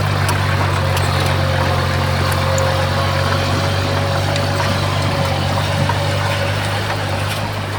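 Heavy diesel engine of an earthmoving machine running steadily at a constant low pitch, with a faint thin whine above it for most of the stretch.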